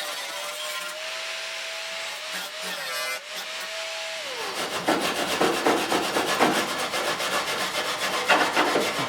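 Electric grinder running steadily on the car's sheet steel, then switched off about four seconds in, its pitch falling as it spins down. After that, quick rhythmic strokes of a hand tool rasp on the metal.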